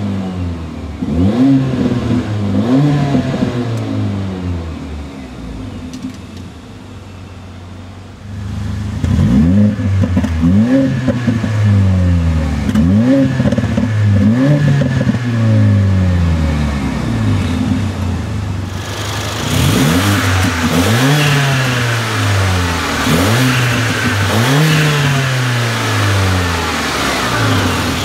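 2015 Mercedes-Benz GLA45 AMG's turbocharged 2.0-litre four-cylinder revved in park through its AMG sport exhaust with electronic bypass valve: a series of quick blips, each rising and falling back. The engine settles briefly to idle around six to eight seconds in before the blips resume.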